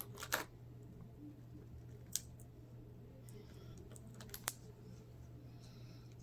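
A handful of light, sharp clicks and taps, a second or two apart, from hands working on the laptop's plastic display parts and the screen's ribbon-cable connector, over a faint steady hum.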